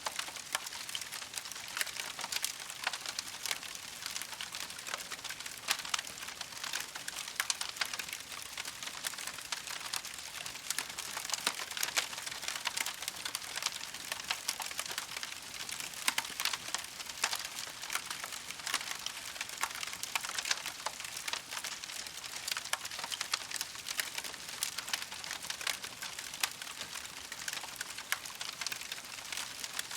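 Campfire crackling steadily: a constant hiss of burning wood with many sharp pops and snaps scattered throughout.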